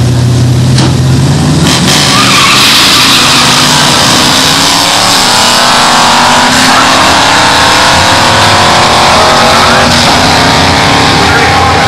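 Two drag cars, a Ford Falcon Sprint and a Chevrolet Camaro, idling at the line and then launching about two seconds in. Their engines run loud at full throttle, rising in pitch as they pull away down the strip.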